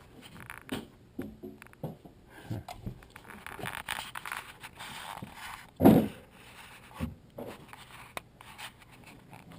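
Small scrapes and rustles of close handling, with a louder dull thump about six seconds in.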